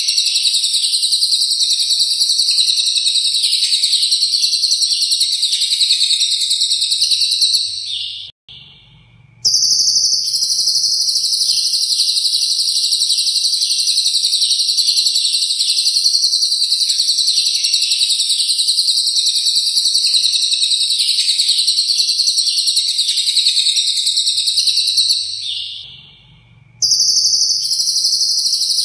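Lovebird singing a long, unbroken 'ngekek' chatter, a rapid high-pitched trilling run with cililin-style filler phrases worked in. The song breaks off twice for about a second, near the start of the second third and again near the end.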